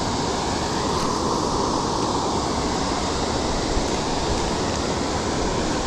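Steady, unbroken rush of water pouring over a waterfall.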